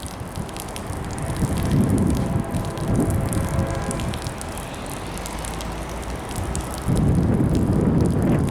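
Wind buffeting the microphone in gusts, with a steady-toned diesel freight train heard faintly underneath as it approaches. The gusts grow louder about seven seconds in.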